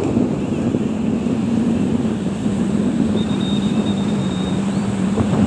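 A boat's engine running with a steady low drone, under heavy wind rumble on the microphone. A faint thin high whistle sounds for about a second midway.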